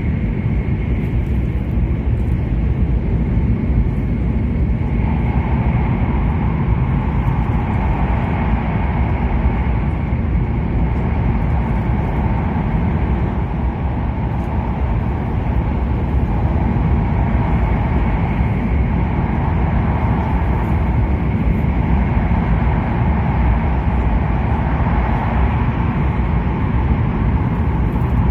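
Steady running noise inside the cabin of an E7 series shinkansen at speed: an even low rumble and rush of air and track, with a faint steady high tone and a slight change in the rush about five seconds in.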